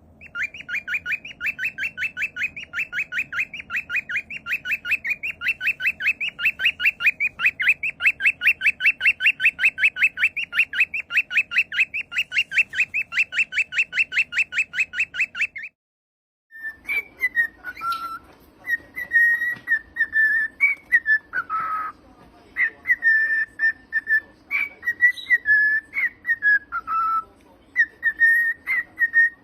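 Pet cockatiel calls: a fast, even run of repeated chirps, about four or five a second, for about fifteen seconds. After a brief break comes whistling in separate notes, mostly held on one pitch, with short downward slides.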